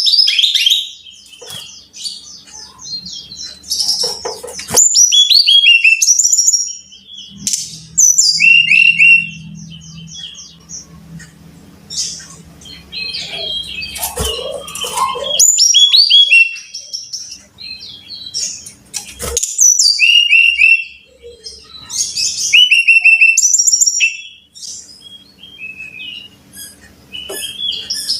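Brown-chested jungle flycatcher singing: phrases of quick, high whistled notes, many sliding downward in rapid series, with short pauses between phrases.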